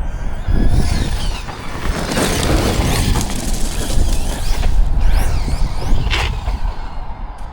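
Electric RC monster truck driving on tarmac: the motor's whine rises and falls with the throttle over a steady rush of tyre noise, loudest in the middle.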